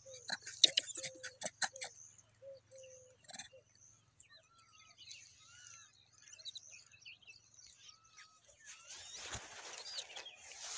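Small birds chirping and twittering in the background, with a few short even-pitched calls and a quick run of clicks and rustles in the first two seconds. A burst of rustling noise comes near the end.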